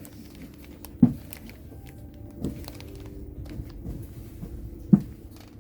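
Three dull knocks, about one, two and a half, and five seconds in, over a steady low hum.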